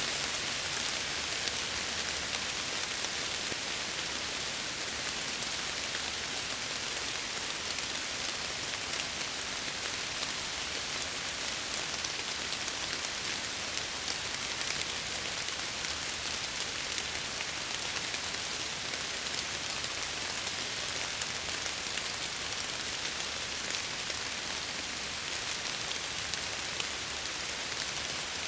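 Steady rain falling and pattering against window glass, an even hiss with fine scattered drop ticks and no thunder.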